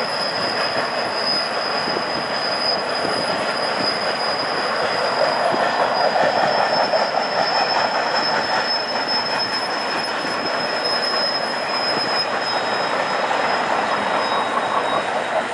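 Union Pacific double-stack container cars rolling past with a steady rumble of wheels on rail and a thin, high, steady wheel squeal above it. The rumble swells a little for a few seconds around the middle.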